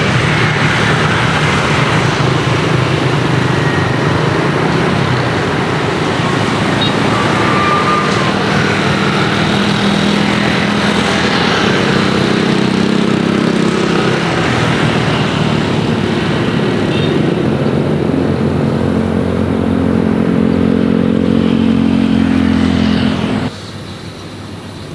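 Loud, steady engine noise with humming tones that rise slightly in the second half, cutting off abruptly near the end.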